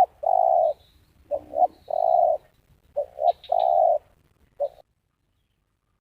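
Spotted dove (tekukur) cooing: three phrases, each two short notes followed by a longer held note, then a single short note near the end. Faint high chirps from another small bird sound now and then.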